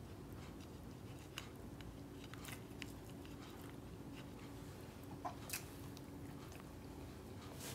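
Faint chewing and mouth sounds of a person eating by hand, with a few short clicks, the loudest about five and a half seconds in, over a steady low hum.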